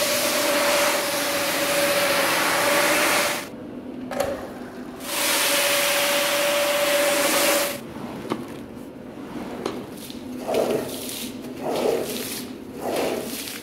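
Rug-cleaning machine running with a loud hiss and a steady hum. It cuts out about three and a half seconds in, starts again at about five seconds and stops near eight seconds, after which quieter, uneven sounds are left.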